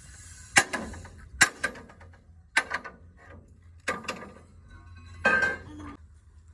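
Five sharp metallic strikes with a ringing tail, about a second apart, the last one longer and ringing more: hand tools knocking on steel truck parts during repair work.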